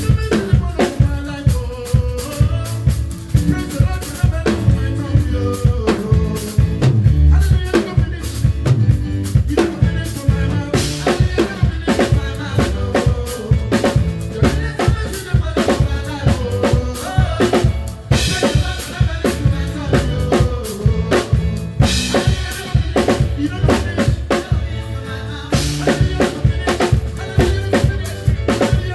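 Live band music led by a drum kit playing a steady groove of kick, snare and rimshots over bass and keys, with a few cymbal crashes.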